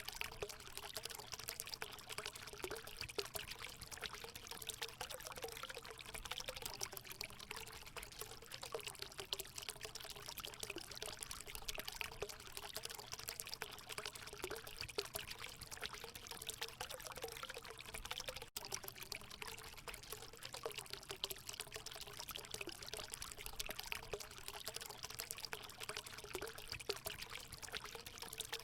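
Natural water running and pouring into a hot spring pool: a steady splashing rush with a wavering gurgle. It breaks off for a split second about two-thirds of the way through.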